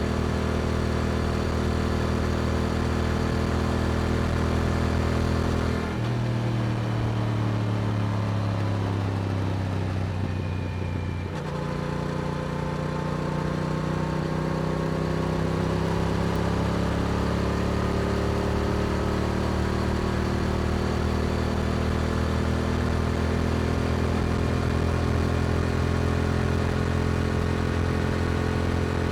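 Yamaha R7's parallel-twin engine through an Akrapovic exhaust, under way at a steady pitch. About six seconds in the note drops and keeps falling for some five seconds as the bike slows. Around eleven seconds the engine pulls again and its pitch climbs slowly through the rest.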